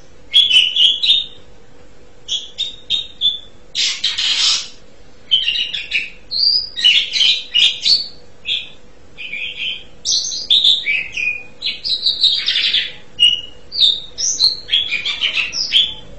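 Asian pied starling singing a varied chattering song of short whistles and chirps in quick phrases, with one harsh, noisy call lasting under a second about four seconds in.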